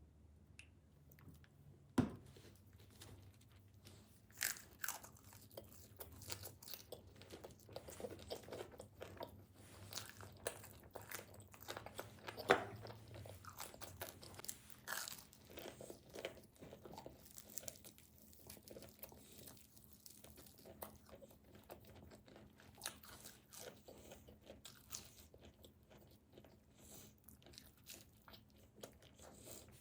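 Close-miked eating of tomato pizza: bites and steady chewing with crisp crunching, irregular throughout, with two sharper, louder crunches about two seconds in and about twelve seconds in.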